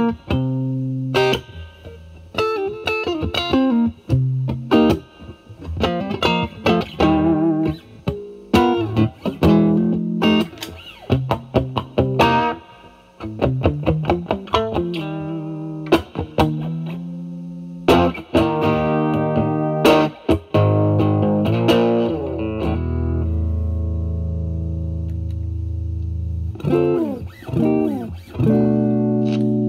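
Fender Stratocaster through a Vertex Steel String Clean Drive, a J201-FET Dumble-style overdrive pedal, at full gain into the clean channel of a Marshall Valvestate amplifier: bluesy lead phrases of picked single notes with bends and vibrato. Near the end a low note is held and rings out for a few seconds before another phrase starts.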